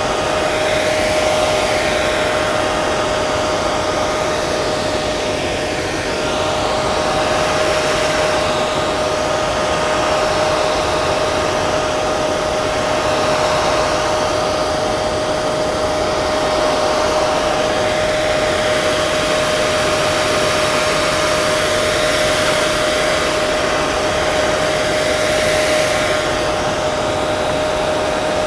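Hair dryer running steadily: rushing air from the fan with a constant motor whine. The upper hiss shifts slowly back and forth.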